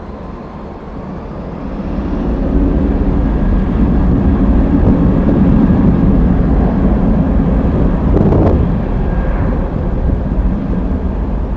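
Jet airliner engines, growing louder over the first couple of seconds and then staying loud and steady, with a faint whine above the engine noise.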